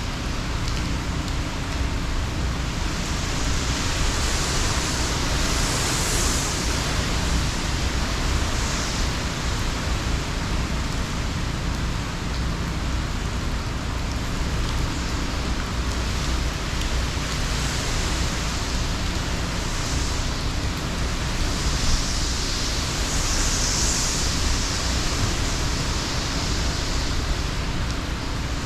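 Hurricane rain and wind: a steady heavy rush that swells several times in gusts.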